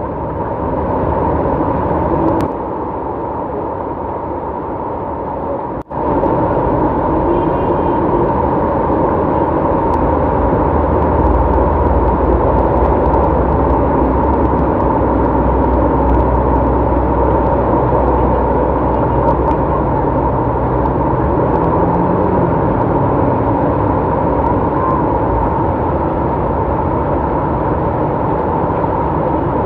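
Steady din of road traffic in the rain, with a deeper engine rumble through the middle stretch. The sound cuts out for an instant about six seconds in.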